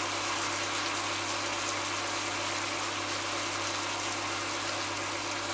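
Meat and vegetables sizzling steadily in a pot over a steady low hum.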